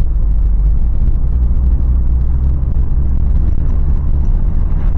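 Steady low rumble inside the cabin of a Toyota 4Runner driving at about 25 mph: its 4.0-litre V6 running under light load, mixed with road noise.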